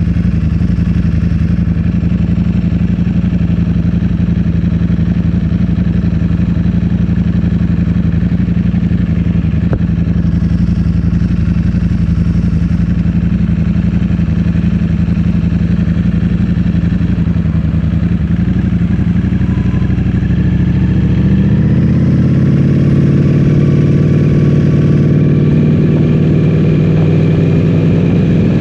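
Ducati Streetfighter V4S's 1103 cc V4 engine running through an Akrapovic full-system exhaust, holding steady revs for about twenty seconds. Around twenty-one seconds in the revs climb and then hold at a higher, fuller pitch.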